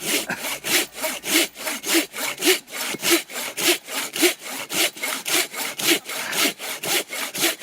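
Hand saw cutting through hard wood in steady back-and-forth strokes, about three a second.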